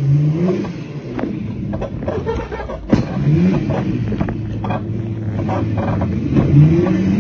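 Dirt bike running with a steady low drone, revved up and back down three times: near the start, about three seconds in, and near the end. Sharp clicks and knocks throughout, with a louder knock about three seconds in.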